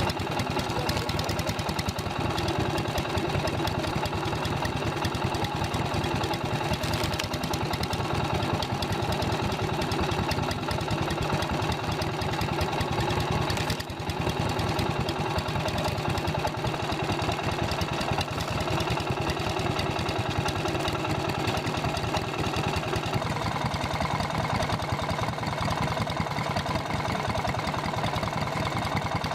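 Engine running steadily, driving a cone log splitter. It drops briefly about halfway through and shifts slightly in tone in the last quarter.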